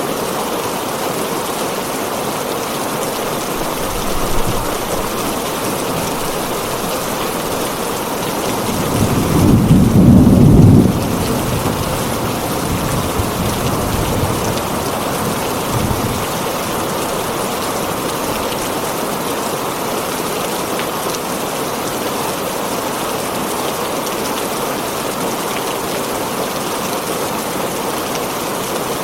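Heavy rain falling steadily on a tin roof, with a low roll of thunder that swells about nine seconds in, peaks briefly and dies away over the next few seconds.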